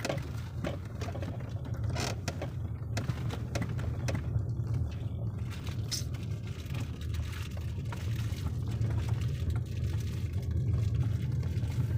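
Steady low rumble of a car driving, with a few light knocks and rattles.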